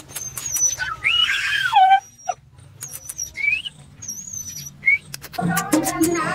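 Birds calling with high thin whistles and short rising chirps, with a louder falling call about a second in. Music with drums starts near the end.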